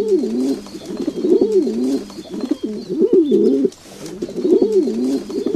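A bird cooing: several low, rolling phrases of about a second each, with short pauses between them.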